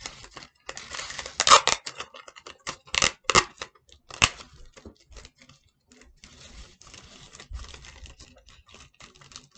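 Paper and tape being crinkled, torn and pressed into shape by hand: a run of small crackles and clicks, with a few louder sharp crinkles or rips in the first half, then quieter rustling.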